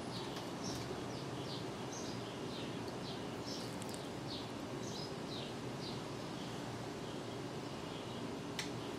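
A songbird calling over steady background hiss: a long series of short, high chirps, each falling in pitch, about two a second. A single sharp click comes near the end.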